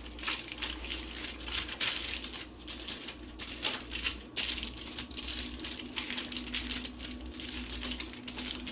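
Aluminium foil crinkling and crumpling in irregular bursts as it is wrapped around a whole fish for roasting, with a faint steady low hum coming in about halfway.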